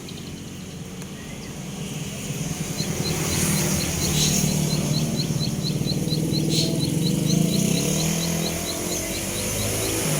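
A young cemblek sawah songbird calling in a quick, even run of high ticks, about three to four a second. Under it runs the low drone of a motor vehicle engine, which grows louder about three seconds in.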